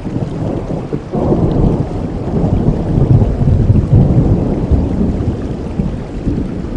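Rain falling steadily, with a long, deep thunder rumble that swells suddenly about a second in and slowly fades near the end.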